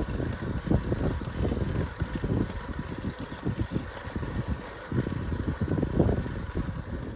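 Bicycle ride noise: uneven rumbling wind buffeting the microphone over the hum of tyres rolling on the trail.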